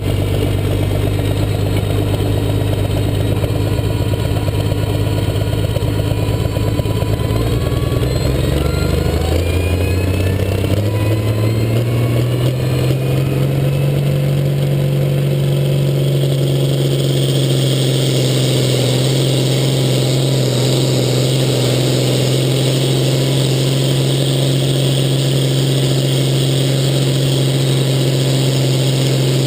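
International farm-stock pulling tractor's engine running steadily, then revving up over several seconds, from about 8 seconds in, and held at high revs for the rest of the pull.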